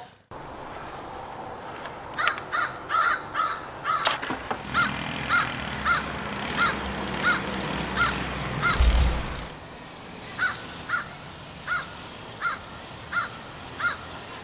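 A crow cawing over and over, about twenty caws at a steady pace, with a low rumble through the middle that ends in a thump about nine seconds in.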